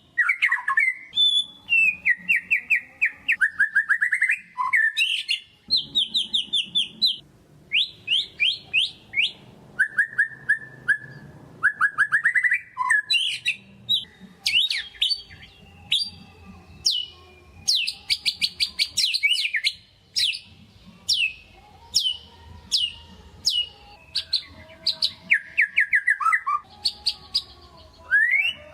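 White-rumped shama (murai batu) singing vigorously: varied phrases of fast repeated notes, rattling trills and sharp whistled strokes, one phrase after another with short pauses.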